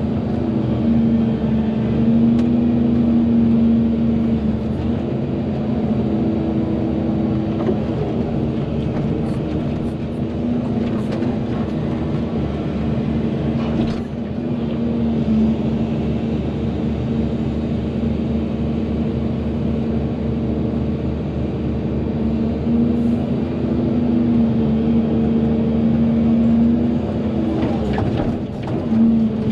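Volvo EC220DL excavator's diesel engine and hydraulics running continuously under working load, a steady low drone whose tone swells and eases every few seconds as the machine digs.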